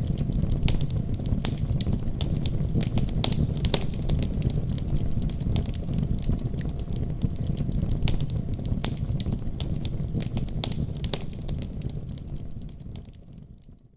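Wood fire burning in a fireplace: a steady low rumble of flames with frequent sharp crackles and pops, fading out near the end.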